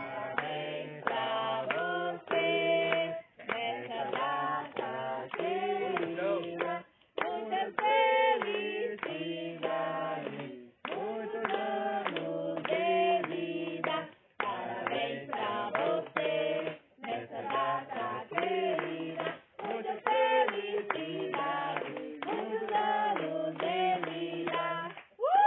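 Several people singing a song together, in a steady run of short sung phrases.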